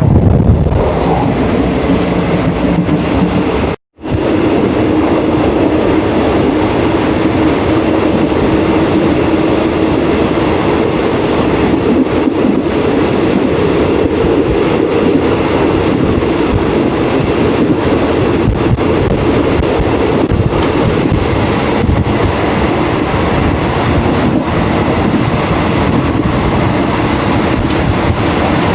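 A train running along the track, a steady rumble with the clatter of wheels over the rails. The sound cuts out for a moment about four seconds in.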